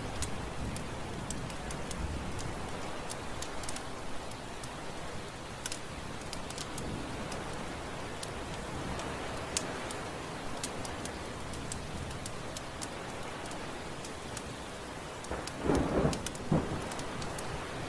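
Steady heavy rain with scattered sharp ticks, then a low rumble of thunder building near the end.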